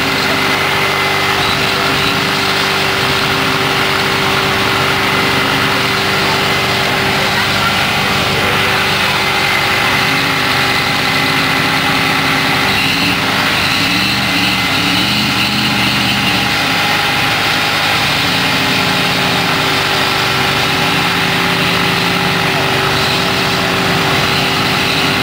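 Vehicle engines running, with one engine's pitch rising and falling several times in the middle stretch as it is revved.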